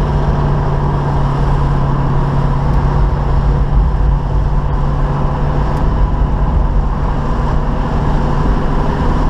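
1972 Chevy Nova's 350 small-block V8 running at a steady cruise, with road noise, heard from inside the car.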